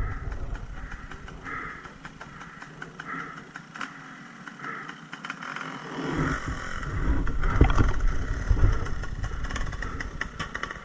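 Dirt bike engine running, faint at first, then louder and revving unevenly from about six seconds in.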